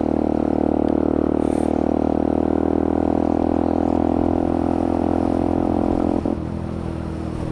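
Benelli TNT 125's single-cylinder four-stroke engine running at steady revs on the move, with wind rushing past. A little after six seconds the engine note drops and gets quieter.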